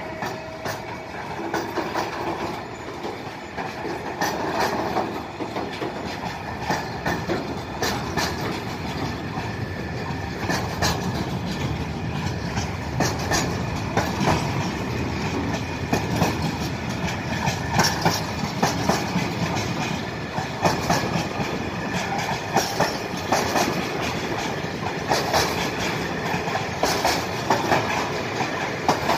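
Container freight train's loaded flat wagons rolling past, a continuous rumble of steel wheels on rail with a rhythmic clickety-clack of wheelsets crossing rail joints; the clicks come more often and louder in the second half.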